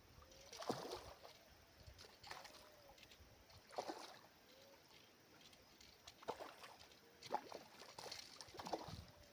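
River water lapping and splashing faintly at the bank, a small irregular slosh every second or so.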